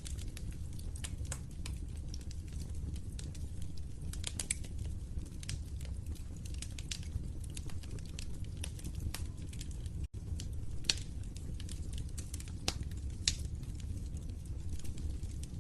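Wood fire crackling in a fireplace: a steady low rumble of flames under frequent small crackles and pops, with a few louder snaps in the second half. The sound cuts out for a split second about ten seconds in.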